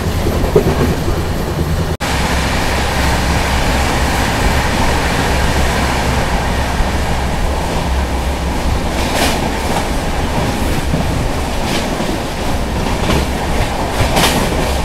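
Brindavan Express passenger train running along the track: a steady rumble of wheels on rail, with a few sharp clacks over the last six seconds.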